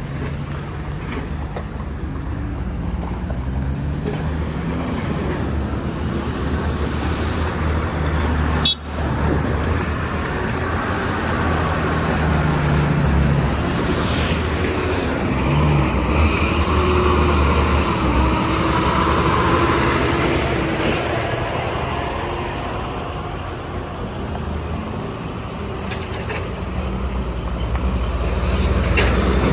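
Heavy truck engine running with road and traffic noise, its low drone shifting in pitch as it goes.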